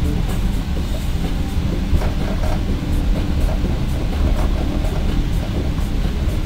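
Indian Pacific passenger train running at speed, heard from on board: a steady low rumble with a light, irregular clatter of wheels on the rails.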